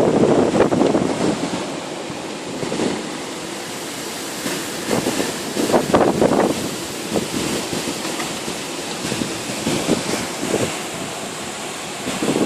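Storm wind blowing in strong gusts, loudest at the start and again about five to six seconds in.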